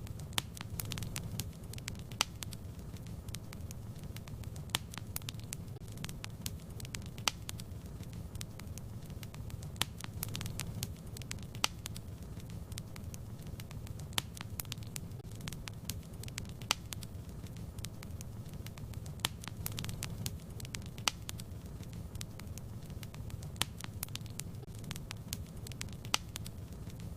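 Wood fire burning in a fireplace: a steady low rumble of the flames with frequent, irregular crackles and pops.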